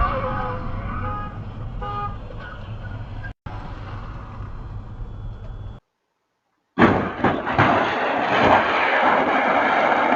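Dash-cam road and traffic noise, cut by edits: a steady low rumble of a car on the road with a few short tones, a second of dead silence, then a loud rushing noise with sharp peaks.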